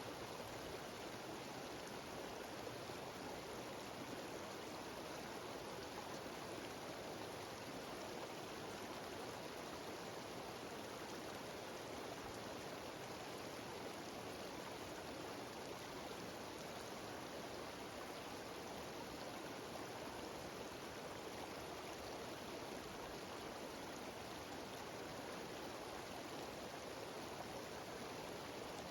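Water rushing down a cascading mountain waterfall: a steady, even roar of water that does not change.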